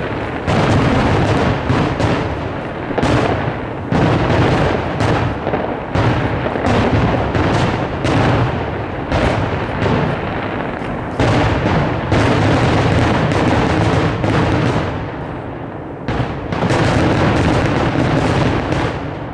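Aerial firework shells bursting in rapid succession, a near-continuous barrage of overlapping booms that eases briefly about three-quarters of the way through, then picks up again before dropping off at the end.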